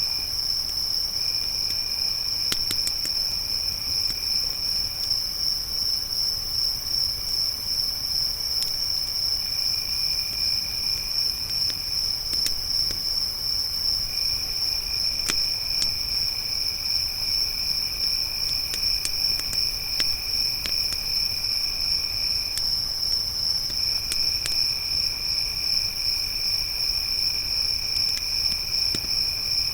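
Crickets chirring: one high, continuous trill throughout, with a second, lower trill that breaks off and resumes several times. Sparse faint pops and crackles of a campfire sound beneath.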